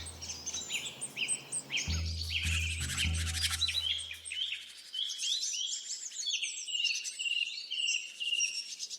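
Many small birds chirping and trilling at once, a dense overlapping chorus of quick high calls, with deep low notes underneath in the first half that fade out about halfway through.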